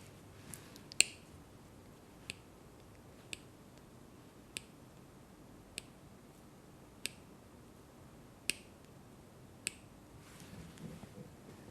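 Eight sharp, crisp clicks, evenly spaced a little over a second apart; the first, about a second in, is the loudest.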